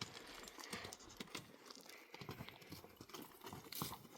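Donkeys walking on stony ground: faint, irregular taps and knocks of hooves.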